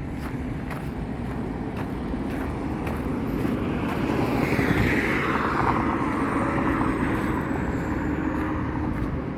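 Steady outdoor traffic rumble, with one vehicle passing by that is loudest about five seconds in, its pitch falling as it goes past.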